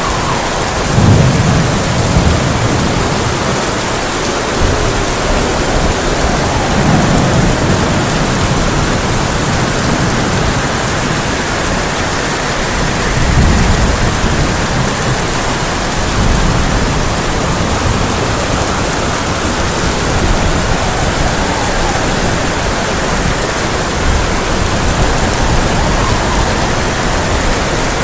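Heavy rain falling steadily on a tin roof, with several low rumbles of thunder: one about a second in, another around seven seconds, and a longer one near the middle.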